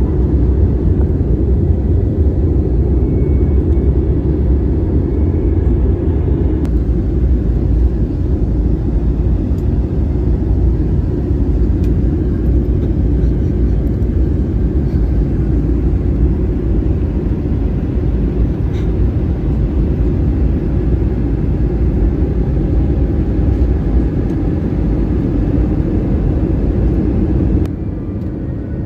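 Steady low rumble of a vehicle in motion, heard from inside it, dropping slightly in level near the end.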